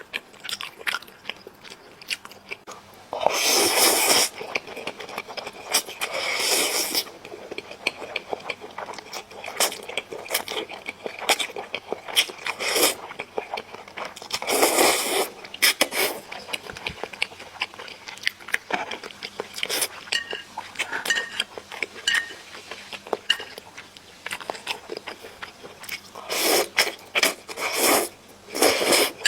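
Close-up eating sounds: chewing and biting into chicken, with many small mouth clicks and a few louder bursts of crunching about three, six, fifteen and twenty-six seconds in.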